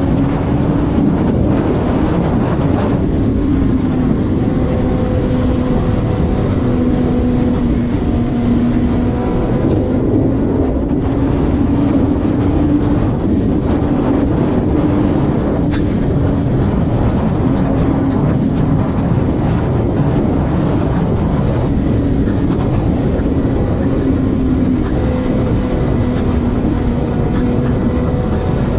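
Vehicle engine holding a steady highway cruise under loud road and wind noise, its tone drifting slightly up and down in pitch.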